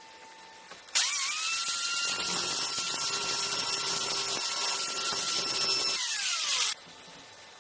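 A small electric power tool's motor spins up about a second in, runs with a steady high whine for about five seconds, then is switched off and winds down in falling pitch.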